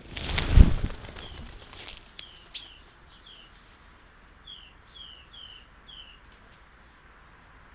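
Small bird giving short, high chirps that slide downward: a few scattered ones, then a run of four about half a second apart. It opens with a loud noisy burst lasting about a second and a half.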